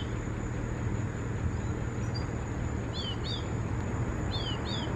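A small bird calling in the background: pairs of quick, high, downward-slurred whistled notes, about three seconds in and again near the end, over a steady low hum.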